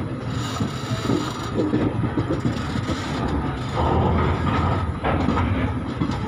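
Express passenger train's coaches running at speed, heard from the doorway: a continuous rumble and rattle of wheels on rails. It grows louder for about a second a little after halfway.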